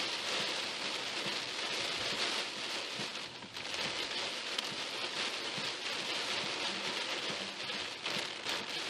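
Heavy rain falling on a car: a dense steady hiss full of small drop ticks, easing for a moment about three and a half seconds in.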